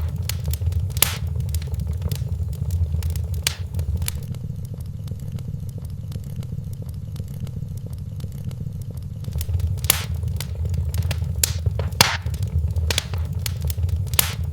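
Wood fire in a fireplace crackling, with sharp pops at irregular moments over a steady low rumble; the pops thin out for a few seconds in the middle.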